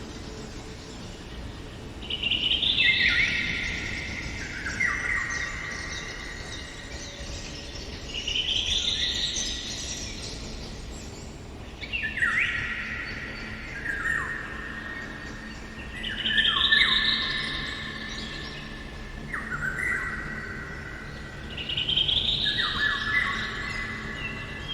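Songbird singing: a phrase that steps down in pitch from high to low, repeated every few seconds, over a faint outdoor background.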